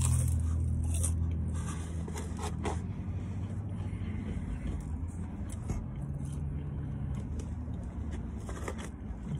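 Biting into and chewing crispy battered fried food, with a few short crunches and crackles of the paper food box being handled. A low steady hum of the car sits underneath, strongest in the first second.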